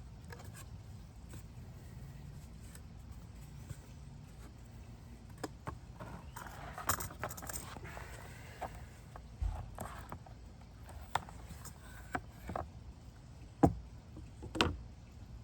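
Scattered clicks, knocks and light metallic clinks of parts and tools being handled, with a short scrape about halfway through and two sharper knocks near the end, over a faint low hum.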